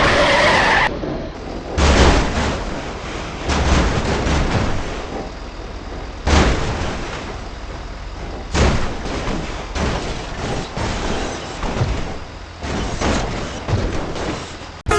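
Noisy, rumbling vehicle and impact sound effects, with four sudden loud bursts that each fade over a second or so.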